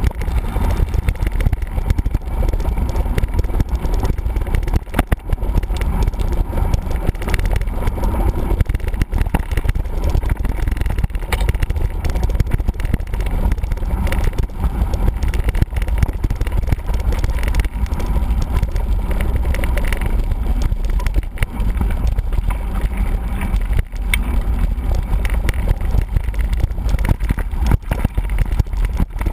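Mountain bike rolling over rough ground: a steady low rumble with frequent rattles and clicks throughout.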